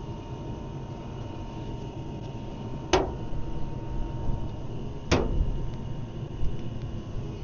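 Two sharp knocks, about two seconds apart, over a steady low rumble.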